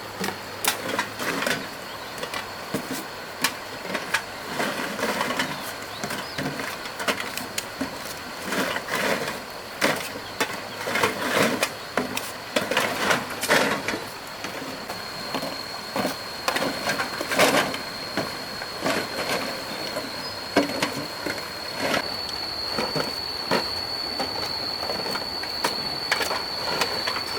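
Irregular knocks, clatter and scraping of hard objects being handled, with a thin steady high tone that starts about halfway through.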